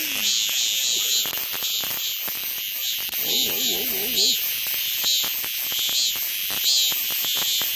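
Cicada calling: a high buzzing song that swells in repeated pulses a little less than once a second.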